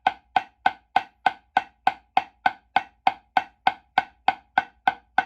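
Single drumstick in the left hand playing an even stream of eighth-note strokes, about three and a half a second, each a crisp, short stick tone with a brief ring. This is a stick-control sound-quality exercise, played with all fingers back on the stick.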